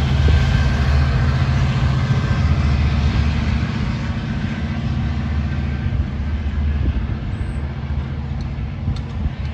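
Diesel locomotive engine of a Long Island Rail Road train running with a steady, deep throb, slowly easing in loudness.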